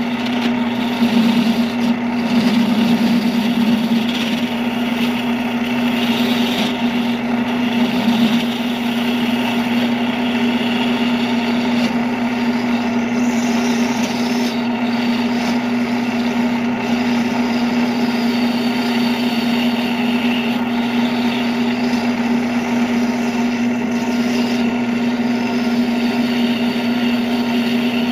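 A woodworking power tool's electric motor running steadily with a constant hum, with some shifting higher-pitched noise in the first few seconds that may be wood being worked.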